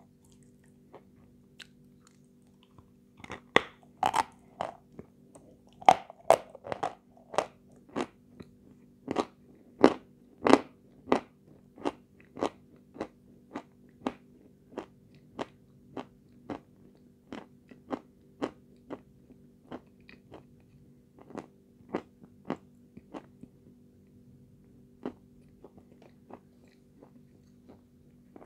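Hard, chalky white chunks being bitten and chewed: crisp crunches start about three seconds in and are loudest over the next several seconds. They then go on more lightly at about one and a half a second and thin out near the end, over a faint steady hum.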